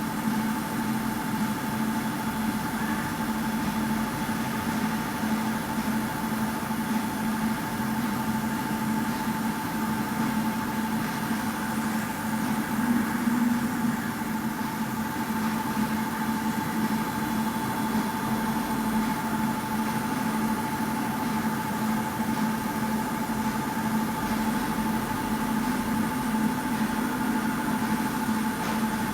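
Laundromat washing machine in its final spin, the drum spinning steadily at top speed: an even hum with a steady whine over it.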